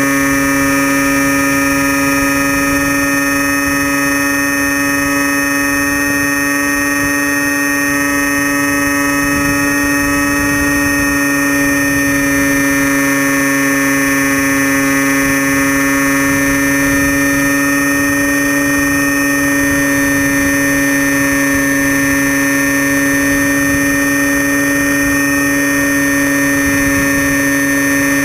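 Electric motor and propeller of a Storm Chaser RC plane running at steady throttle in flight, picked up by a camera on the plane: a loud, steady whine with many overtones that holds nearly the same pitch throughout, over a low rush of air.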